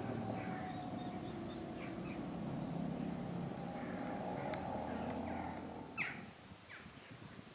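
Small birds chirping and singing over a steady low drone. The drone drops away about six seconds in, leaving a sharp falling bird call and quieter chirps.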